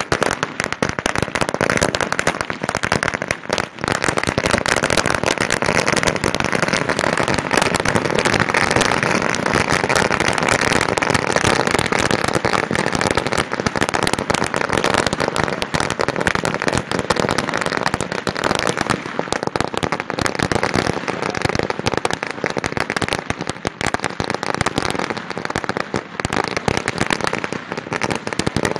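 Firecrackers going off in a dense, rapid, continuous crackle of bangs without a break.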